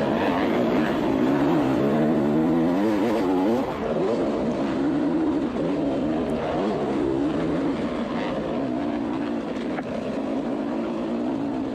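Trail motorbike engines revving up and down as the riders pull up a steep hill, the pitch rising and falling again and again, heard played back over a PA system.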